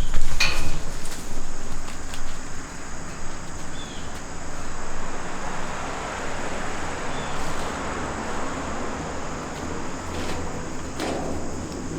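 A steady, high-pitched outdoor insect chorus over a low background hiss, with a few brief knocks near the start and again near the end.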